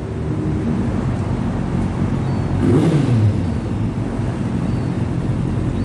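Motorcycle engine running steadily, with a louder swell about three seconds in where its pitch falls away.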